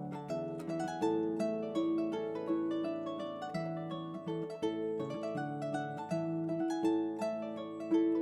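Background music: a solo harp playing a quick run of plucked notes over held bass notes, in the style of Irish traditional harp music.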